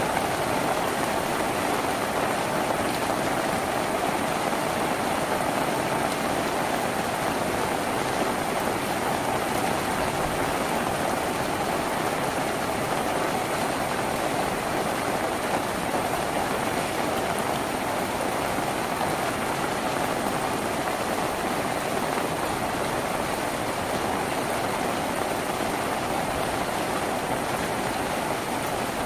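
Steady rain falling on a tin roof: an even, unbroken patter.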